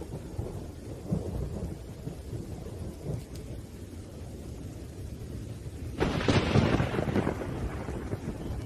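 Thunderstorm: low rolling thunder rumbling over steady rain, with a sudden, louder crack of thunder about six seconds in that rumbles away over a couple of seconds.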